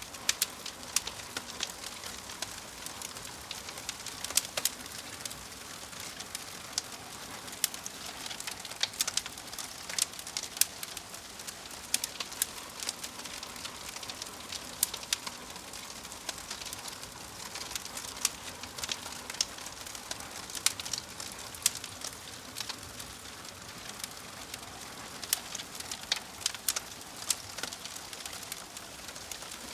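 Wood fire burning in a fireplace: irregular crackles and pops, a few each second, over a steady hiss from the burning logs.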